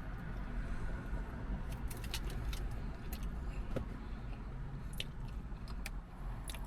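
A person chewing a bite of a chewy soft pretzel dipped in honey mustard, with scattered small mouth clicks, over a steady low rumble.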